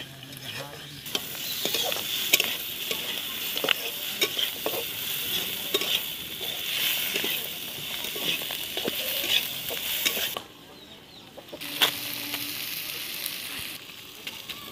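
Chicken pieces sizzling as they fry in a metal karahi, with a metal spatula scraping and clicking against the pan as they are stirred. The sizzle drops away briefly a little after the middle, then comes back.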